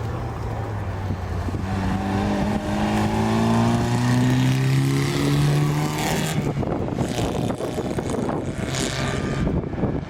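Rally car engine pulling hard, its note climbing steadily for several seconds as the car accelerates. About six seconds in the note breaks off abruptly and a rushing noise follows as the car goes by.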